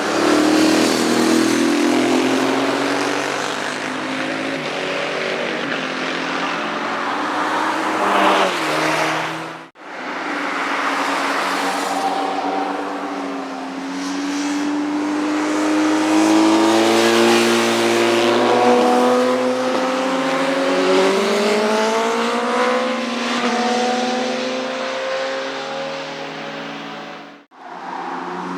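Motorcycle engines at high revs on a racetrack, the pitch climbing as the bikes accelerate, with a short dip at a gear change. The sound breaks off abruptly twice, about ten seconds in and near the end.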